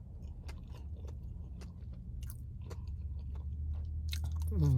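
A person chewing food close to the microphone, with small scattered mouth clicks over a low steady hum. A short vocal sound comes near the end.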